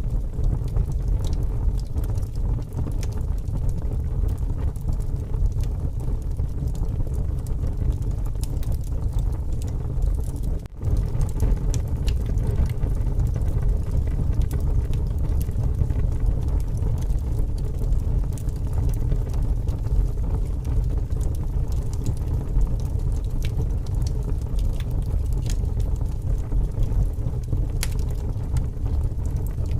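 Wood fire burning, with scattered sharp crackles and pops over a steady low rumble of strong wind. The sound drops out for an instant about eleven seconds in.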